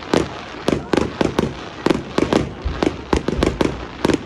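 Fireworks going off in a rapid, irregular string of sharp bangs, about three or four a second.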